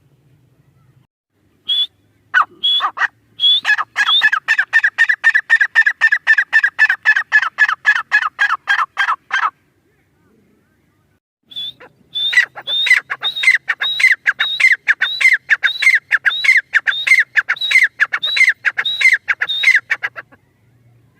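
Francolin (teetar) calling: a long run of quick, sharp notes repeated several times a second, each dropping in pitch, starting about two seconds in and stopping near the halfway point, then after a short pause a second run of the same notes until shortly before the end.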